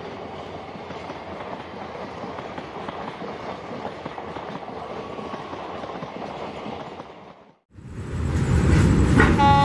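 Passenger train coaches running past at speed, a steady rush of wheels on the rails. About seven and a half seconds in it cuts off suddenly and a louder low rumble takes over. Near the end a locomotive horn sounds a chord of several notes.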